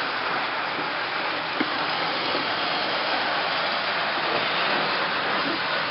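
Steady whirring rumble of O-gauge model trains running together on a large layout, with one sharp click about one and a half seconds in.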